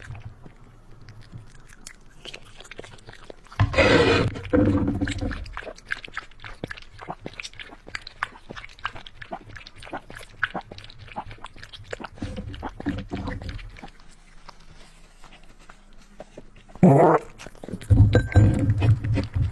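Puppy chewing and crunching food with many small clicking bites. Twice it gives a loud pitched dog vocalization: about four seconds in, and again near the end.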